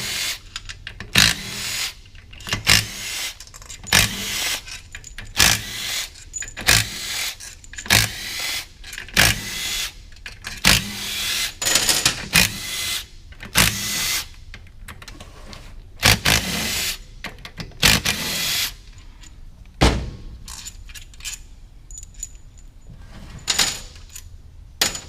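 Hand ratchet cranked in repeated short strokes, each a quick burst of clicking, backing out the transmission case bolts. The strokes come about once a second at first, then thin out to a few spaced clicks after about 18 seconds.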